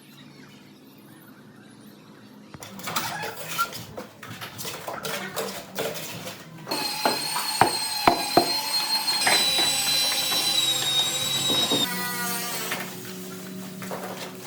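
A power tool runs with a steady high whine for about five seconds, then stops, among knocks and clatter of construction work.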